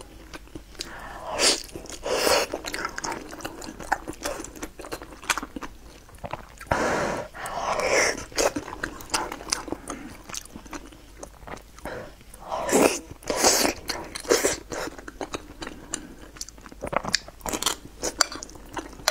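Close-miked eating of a sticky, syrup-glazed rice dish: wet chewing and mouth smacks with many small clicks, and a few louder bites spread through.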